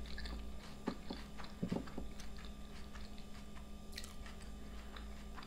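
Close-up chewing of a mouthful of trout and avocado salad with iceberg lettuce and cucumber, mouth closed: soft, irregular wet clicks and small crunches.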